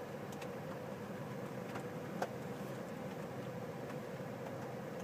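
Steady low mechanical hum with a faint held tone, and a single sharp click about two seconds in.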